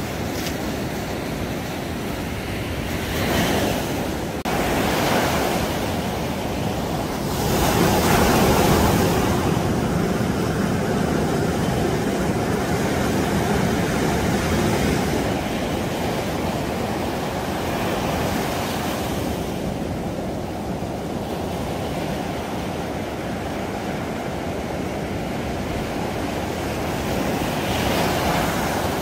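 Surf breaking and washing up a sandy beach, a steady rush with louder swells about 3, 5 and 8 seconds in.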